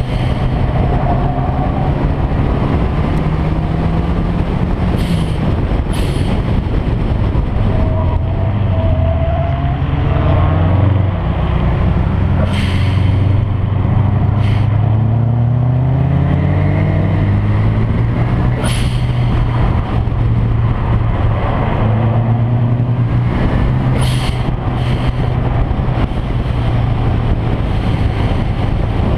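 Car engine under hard driving, its pitch repeatedly climbing and dropping as it is revved up and shifted through the gears. Several short sharp cracks cut through at irregular moments.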